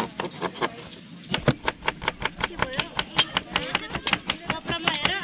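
A rapid series of sharp knocks, about four to five a second, with voices talking faintly between the strikes.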